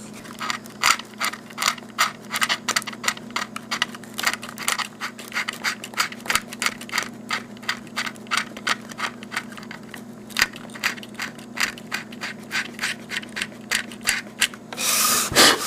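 X-Acto knife blade scraping the printed numbers off the plastic shell of an HO-scale model locomotive, in short light strokes at about three a second, with a louder, longer scrape near the end. A steady low hum runs underneath.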